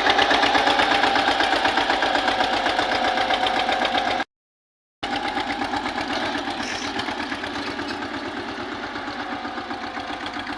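Eicher tractor's diesel engine running with a fast, even beat. The sound cuts out abruptly for under a second about four seconds in, then resumes slightly quieter.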